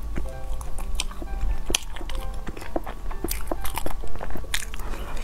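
Close-up mouth sounds of biting and chewing a persimmon-shaped pastry: many short, sharp smacks and clicks at an uneven pace. Quiet background music with held notes runs underneath.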